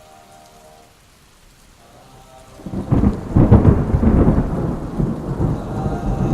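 Thunder rumbling loudly over rain, breaking in about three seconds in after a quiet stretch of a few faint steady tones.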